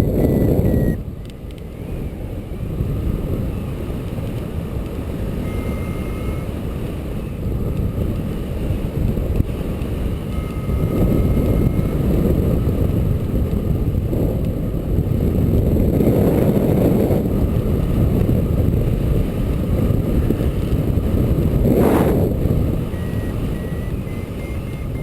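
A steady low rumble throughout, broken by a few short electronic beeps, each held about a second, from a hang glider's variometer.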